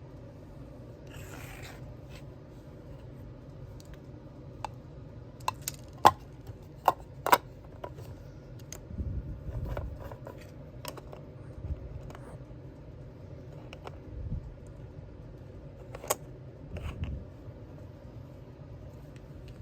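Small craft-handling sounds: a short papery rustle, then a run of sharp clicks and taps, followed by a few soft low bumps on the work surface.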